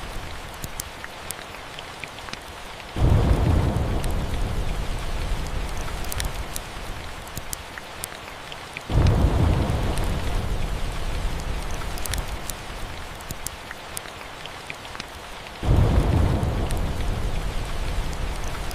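Steady rain with three rolls of thunder, each starting suddenly, about a few seconds in, near the middle and near the end, then fading away over several seconds. Sharp little crackles of a wood fire are scattered over the rain.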